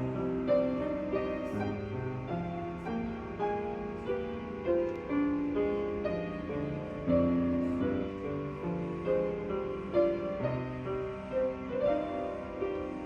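Instrumental music: piano notes struck over held chords.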